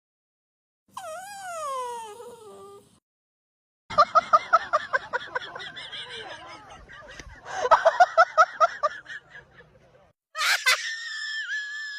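A dog's vocalising in a string of short clips. First comes one whine that falls in pitch. Then there are two runs of quick pulsed, laugh-like sounds, and near the end a high, steady squeal.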